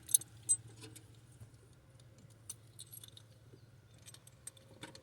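Light metallic clicks and clinks of hand tools and parts being worked against the engine, scattered irregularly, with two sharper clinks just after the start.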